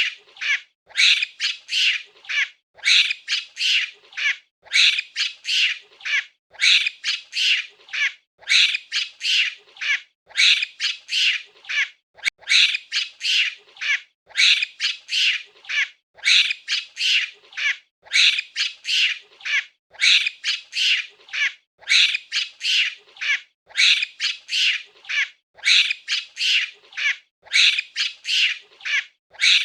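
Monkey giving rapid series of short, high-pitched calls, in clusters that repeat about every two seconds without a break.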